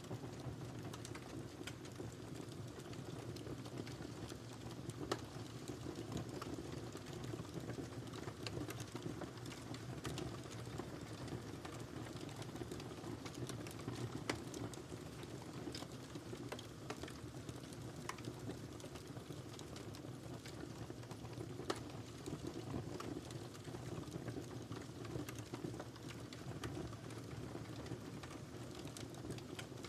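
Wood fire burning in a fireplace, crackling steadily with many small pops and snaps over a soft rushing of flame, with a couple of louder pops, one about five seconds in and one past the twenty-second mark.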